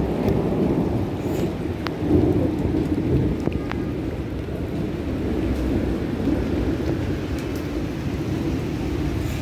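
Steady rain falling on a wet paved courtyard and garden, a dense low-pitched wash with a few sharp drips about two and three and a half seconds in.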